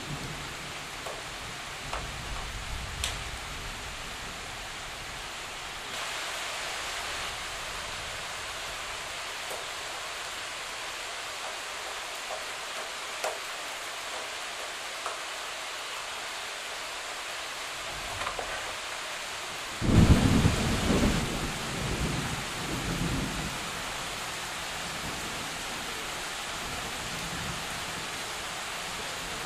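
Heavy rain falling steadily on forest trees in a thunderstorm. A loud low rumble of thunder breaks in about two-thirds of the way through and fades over a few seconds, after fainter rumbling dies away in the first few seconds.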